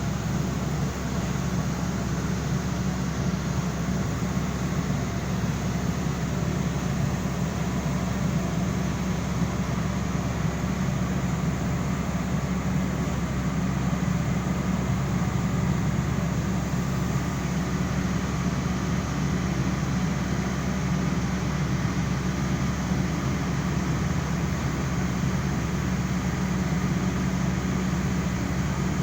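A steady low mechanical drone, unchanging in level.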